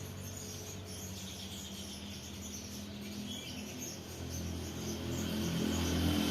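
House sparrows chirping faintly over a steady low hum of background noise, which grows louder near the end.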